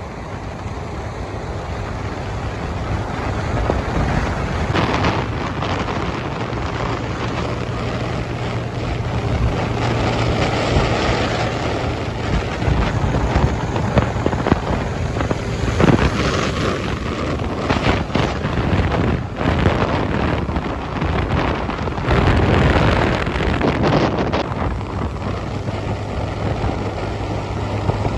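Motorcycle engine running at a steady cruise while riding, with heavy wind buffeting the microphone in gusts.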